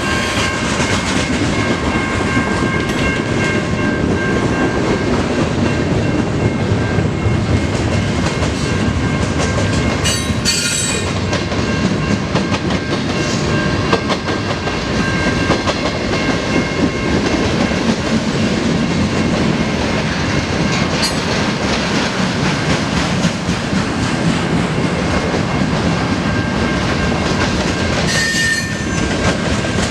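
CN mixed freight train rolling through a grade crossing at close range: steady loud rumble and clickety-clack of freight cars passing over the rails. Two brief metallic screeches come about ten seconds in and near the end.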